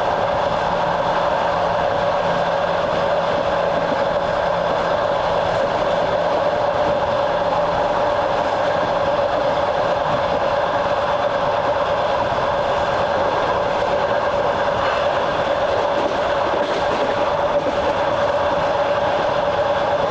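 Train running at a steady speed, heard from on board: an even rumble of wheels on rails with a steady hum.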